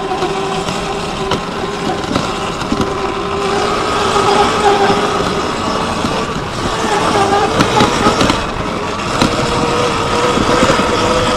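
Electric motor of a Surron X Light Bee dirt bike whining steadily under way, its pitch rising a little near the end, over a constant rushing noise.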